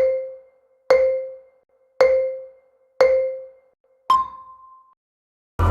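Five-second countdown chime: four short, ringing tones at one pitch about a second apart, then a fifth, higher tone that marks zero.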